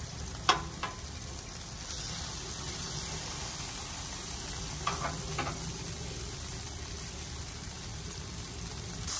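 Brisket and green beans frying on the steel top of a Blackstone flat-top griddle: a steady sizzle, with a few sharp clicks about half a second in and again around five seconds.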